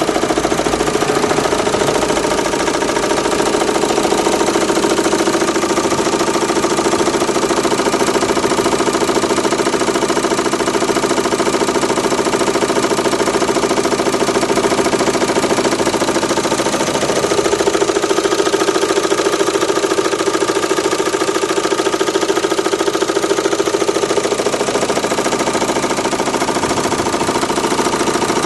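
Renault Mégane II 1.9 dCi four-cylinder turbodiesel engine idling steadily with a rapid knock. The knock is an idle fault of unknown cause that the owner says goes away when revs are raised, along with a slight vibration.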